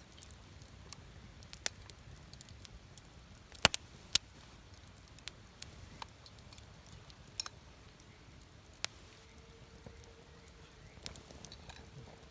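Wood campfire crackling, with scattered sharp pops and snaps over a low steady rush; the loudest pops come in a quick cluster about three and a half to four seconds in.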